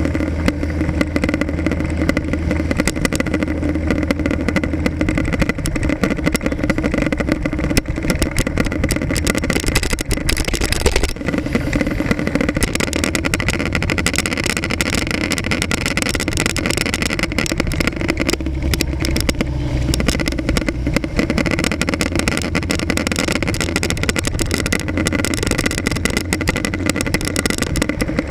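Motorcycle engine running through city traffic, heard from an action camera mounted on the bike, its low note shifting a couple of times as it changes speed.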